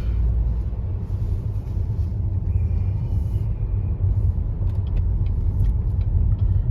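Steady low rumble of a car heard from inside its cabin, with a few faint ticks toward the end.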